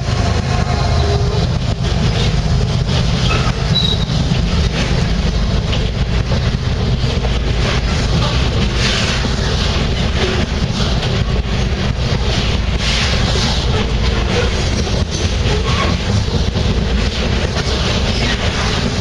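Ferrosur freight train rolling past at speed, a steady loud rumble of wheels on rail with frequent clicks over the rail joints.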